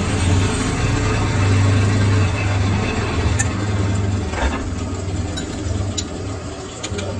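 Workshop machinery running with a steady low hum, louder in the first half, with a few light clicks and knocks in the second half.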